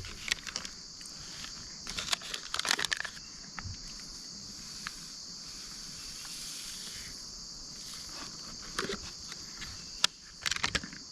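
A steady, high insect chorus, with scattered rustles and clicks of packaging or food being handled close by, in clusters about two seconds in and again near the end.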